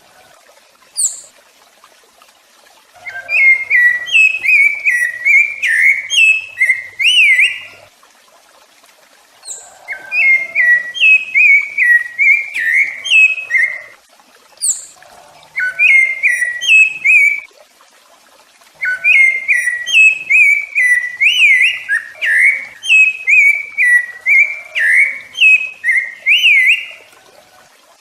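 Rufous-bellied thrush (sabiá-laranjeira) singing: four phrases of quick, clear whistled notes that slide up and down in pitch, separated by pauses of a second or two, with a brief thin high note in a gap.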